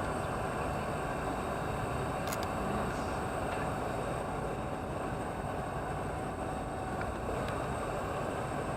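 Steady cabin noise inside a Boeing 717 on the ground before takeoff: an even hum and hiss from the aircraft's air supply and machinery, with a constant mid-pitched whine. A few faint clicks sound about two seconds in.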